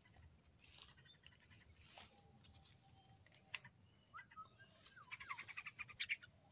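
Songbird calls: faint chirps and short whistled notes, then a fast chattering trill about five seconds in.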